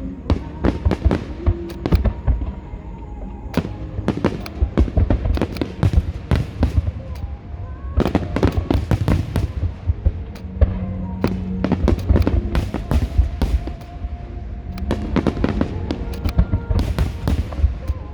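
Aerial fireworks display: rapid salvos of shell bursts and crackling bangs, coming in dense clusters with short lulls between them.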